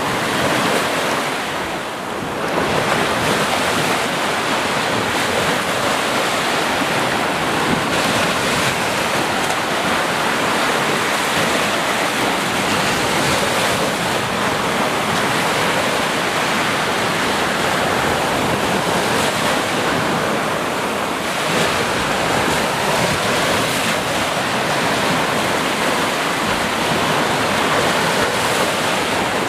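Ocean surf: waves breaking and washing on a shore in a dense, continuous rush, easing briefly about two seconds in.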